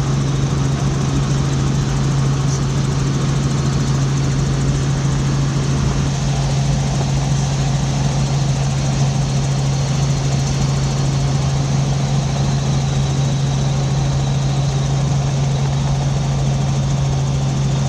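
Helicopter in flight heard from inside the cabin: a steady low drone of engine and rotor with an even rushing noise over it.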